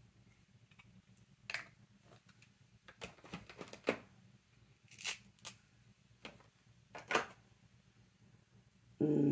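Ink-blending tool brushed and dabbed around the edge of a cardstock piece: a scatter of short, scratchy strokes and light taps, with a brief louder low sound near the end.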